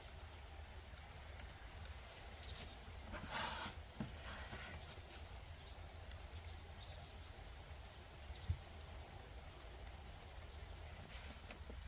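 Quiet outdoor ambience: a steady high-pitched hiss over a low rumble, with a few faint clicks and a brief rustle about three seconds in.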